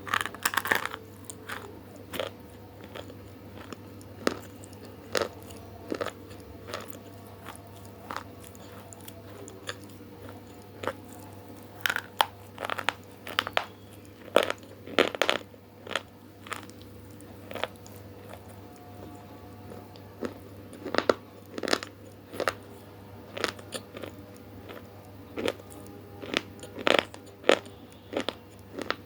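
Close-miked eating of crisp, crunchy food: big bites and chewing that give sharp, irregular crunches, some in quick clusters, over a faint steady hum.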